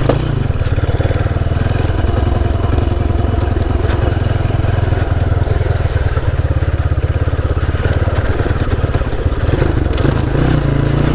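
Honda C90's small four-stroke single-cylinder engine running under way off-road, a rapid steady pulse, settling to a steadier note near the end.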